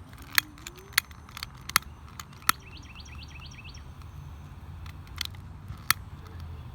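A small bird chirping a quick run of about eight high chirps partway through, among scattered sharp clicks, over a low steady outdoor rumble.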